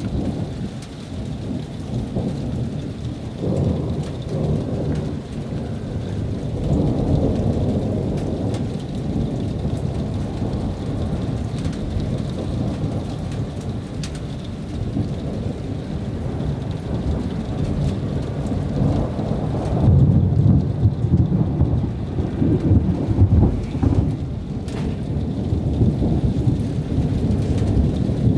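Thunder rolling and rumbling almost without a break from an approaching thunderstorm, swelling loudest about two-thirds of the way through, with rain falling.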